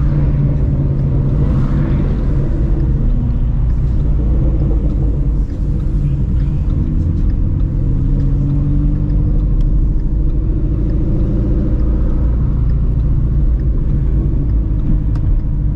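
Modified 2016 Shelby GT350's 5.2-litre flat-plane-crank V8, fitted with long-tube headers, running steadily at low speed. Its pitch rises a little and settles back about halfway through.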